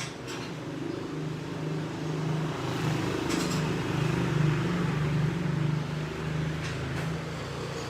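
A motor vehicle engine running with a steady low hum that swells louder from about a second in and eases off again near the end.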